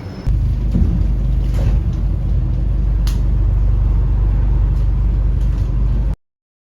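Steady, loud low rumble of a moving vehicle, cutting off abruptly about six seconds in.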